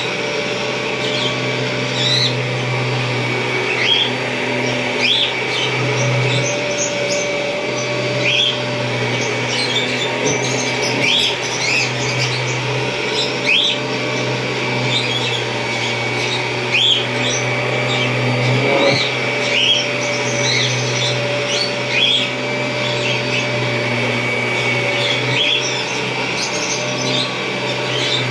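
1991 Kirby Generation 3 upright vacuum cleaner running steadily, a constant motor hum and whine. Short high rising chirps recur about every second or two over it.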